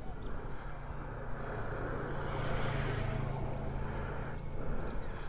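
A motor vehicle's engine running close by, growing louder to a peak about three seconds in and then fading away, like a vehicle passing on the road.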